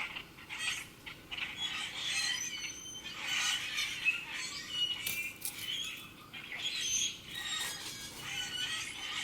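Many small birds chirping and calling at once, a busy chorus of short overlapping chirps and trills.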